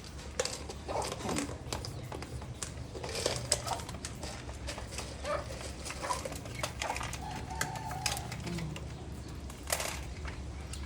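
Pigeons in a loft: scattered short clicks and taps with a few brief calls, over a steady low hum.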